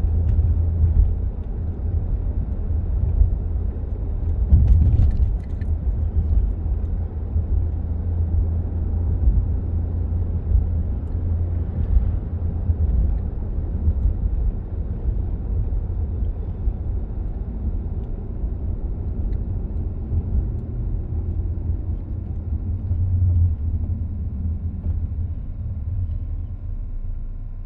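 Low, steady road and engine rumble inside a moving car's cabin, with the air-conditioning fan running on its lowest setting. A brief bump stands out about five seconds in, and the rumble eases a little near the end.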